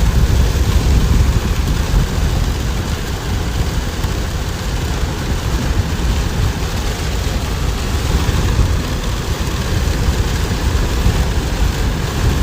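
Steady noise of a heavy rainstorm, with wind rumbling low on the microphone.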